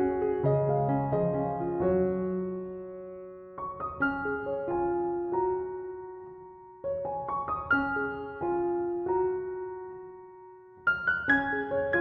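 Background piano music: slow, gentle phrases of held notes that fade away before each new phrase begins.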